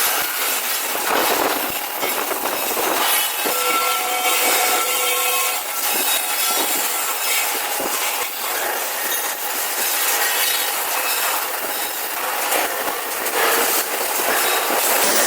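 Robotic MIG welding arc on steel, a continuous crackling sizzle that goes on without pause, with a faint whine for a couple of seconds a few seconds in.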